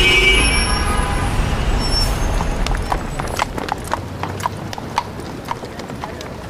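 City street ambience: a car horn dies away in the first half second over traffic rumble, then a horse's hooves clip-clop along the street, about two or three steps a second, as the traffic rumble fades.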